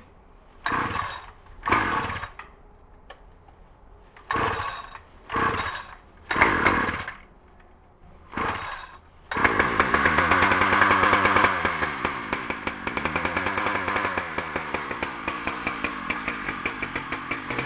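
Small pull-start gasoline engine on a hard cold start in freezing weather: six quick pulls of the recoil starter, each a short rising whir. About nine seconds in, the engine catches and runs loudly, then eases into a steady, pulsing run.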